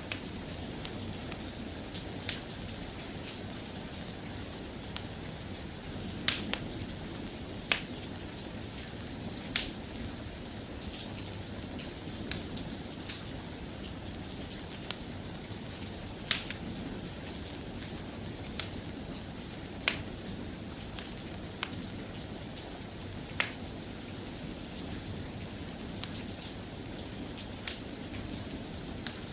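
Steady soft rain with a crackling fireplace: sharp pops and snaps come every second or two over the even hiss.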